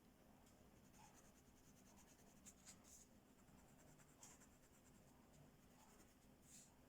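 Faint scratching of colouring strokes on a paper page: a handful of short strokes a second or so apart.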